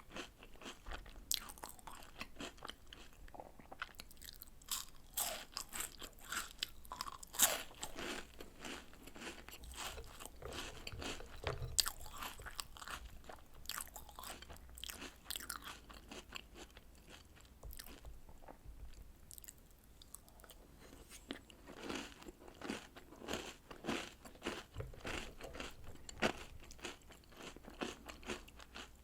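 A person crunching and chewing chocolate biscuits and cereal in milk: many irregular crisp bites and chews.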